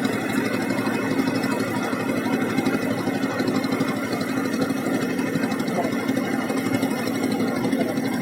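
Boat engine running steadily at an even speed, a fast, even chugging with a strong low hum.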